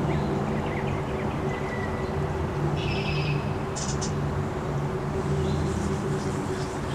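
Small birds chirping with short high calls, the clearest about three and four seconds in, over a steady hum of sustained low tones.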